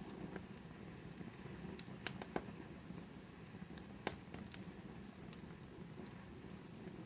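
Fire crackling in a fireplace: a steady low rustle of burning with scattered sharp pops, the loudest about four seconds in.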